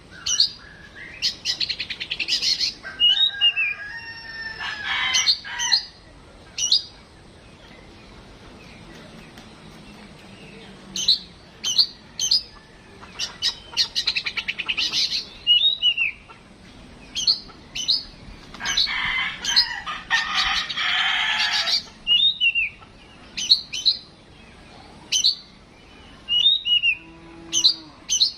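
Oriental magpie-robin (kacer) singing: loud, sharp high notes and whistles, rapid repeated calls and dense chattering trills, broken by a pause of a few seconds about a quarter of the way in.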